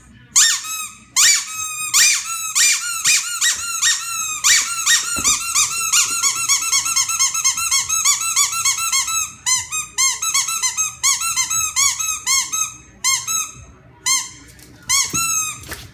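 A squeaky rubber toy squeaking over and over, several squeaks a second, with a few short pauses.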